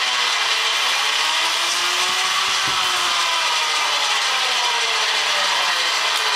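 Zero electric motorcycle's drivetrain whirring: the electric motor's whine rises in pitch and then falls as it speeds up and slows, over a steady chain-and-sprocket rattle and hiss.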